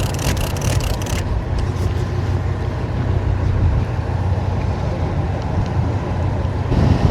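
Steady low rumble of wind and boat noise on the microphone aboard a small fishing boat at sea. A fast run of sharp clicks stops about a second in.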